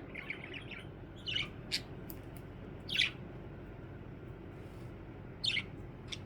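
Pet budgerigar (budgie) chirping: a short run of soft chatter, then scattered single sharp calls, the loudest about three seconds in and another near the end.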